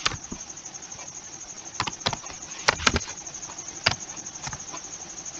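Scattered, irregular keystrokes on a computer keyboard while code is typed: about seven sharp clicks with pauses between them, over a faint steady hiss.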